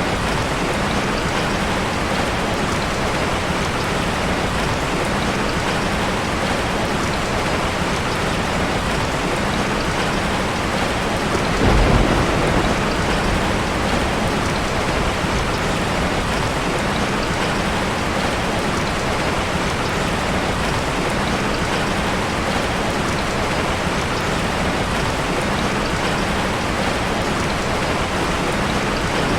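Steady rain falling on a dense forest, with a short, low rumble of thunder about twelve seconds in.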